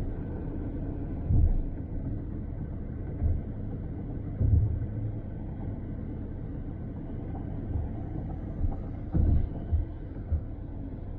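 Tropical-storm wind buffeting the microphone: a steady low rumble with short, louder gusts hitting several times.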